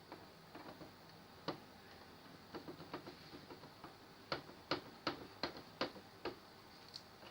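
A series of sharp clicks and light taps from small parts and tools being handled. Scattered soft clicks come first, then a run of six louder clicks, about three a second, in the second half.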